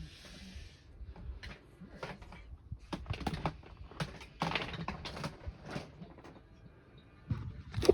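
Irregular light clicks, knocks and brief rustles of hard plastic vacuum-cleaner parts being handled.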